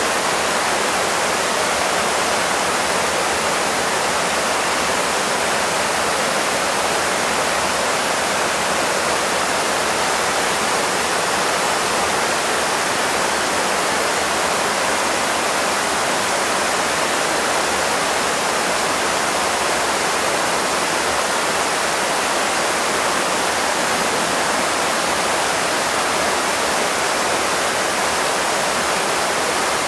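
Shallow, rocky river rushing steadily over stones.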